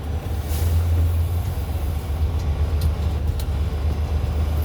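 Semi truck's diesel engine running with a steady low rumble, with a few faint clicks over it.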